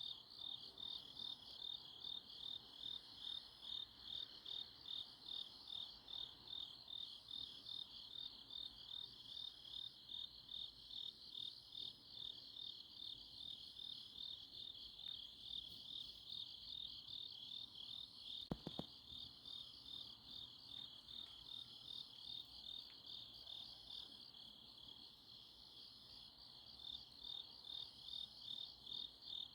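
Grass insects chirping on an autumn night, a steady pulsing chirp about two to three times a second with a fainter, higher trill repeating over it. A brief double click about eighteen seconds in.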